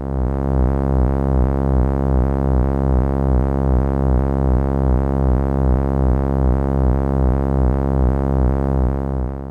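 Looped Korg Monotron synthesizer sample held as one sustained low note in Maschine, pulsing evenly about four times a second. It loops cleanly, with no click at the loop point.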